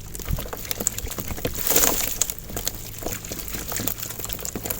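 Water splashing and dripping, with small scattered knocks and one louder splash about two seconds in, over a low steady hum.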